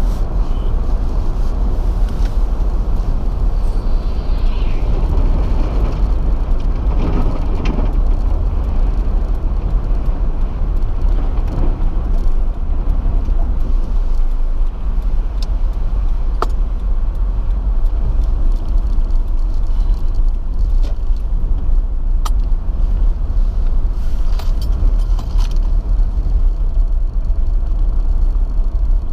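Steady road and engine rumble inside the cabin of a moving car, with a few faint ticks.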